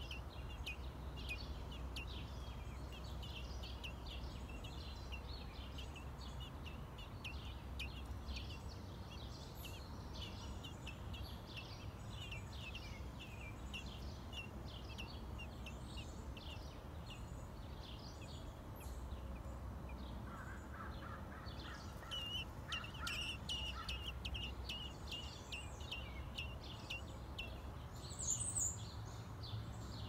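Birds chirping in quick, short, high notes, many per second, with no let-up, over a steady low rumble of background noise. The chirping grows louder about two-thirds of the way through, and a brief higher call comes near the end.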